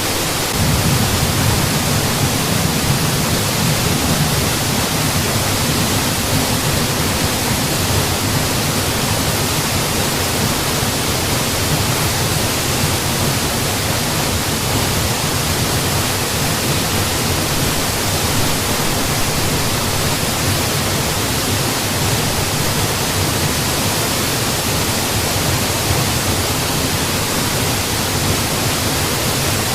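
Waterfall: water pouring and splashing in a steady, unbroken rush, with a deep low rumble underneath.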